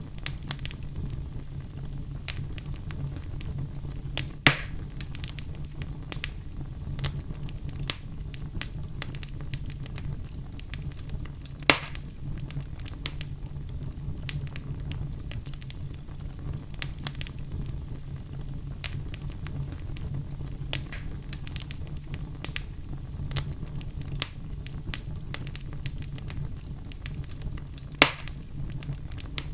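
Fire crackling in a fireplace: a steady low rumble under frequent small crackles, with three louder pops, about four seconds in, about twelve seconds in and near the end.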